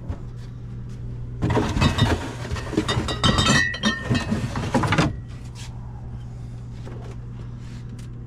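Glass beer bottles clinking and rattling for about three and a half seconds, starting about a second and a half in, over a steady low hum.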